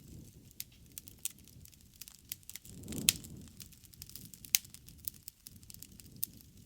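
Bonfire of burning wood crackling, with scattered sharp pops, the loudest a few seconds in. Under them runs a low rushing of the flames that swells briefly near the middle.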